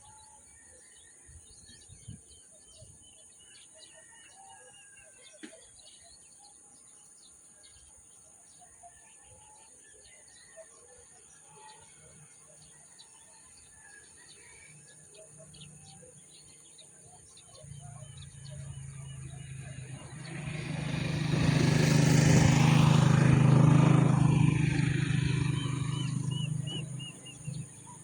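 Wild birds chirping and calling faintly. About two-thirds of the way in, a motor vehicle approaches with a steady low engine hum, grows loud, passes, and fades away near the end.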